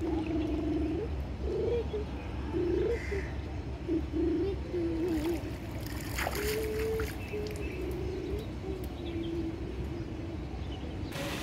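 Birds calling: a run of short, low-pitched calls, some rising or falling, over a steady low hum.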